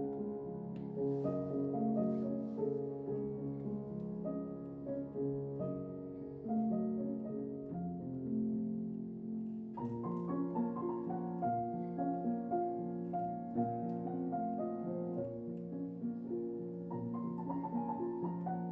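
Background piano music, a slow, gentle melody that grows fuller about halfway through.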